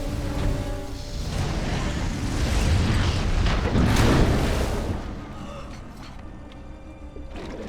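Film soundtrack: a long rumbling boom that swells from about a second in, peaks about four seconds in and dies away, over a steady low rumble and an orchestral score.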